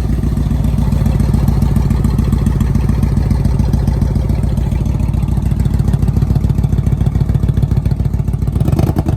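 2006 Yamaha Royal Star Tour Deluxe's V4 engine idling steadily through aftermarket dual exhaust. The bike is running again after sitting three months with its fuel system drained. Near the end the beat quickens briefly, then the sound drops away.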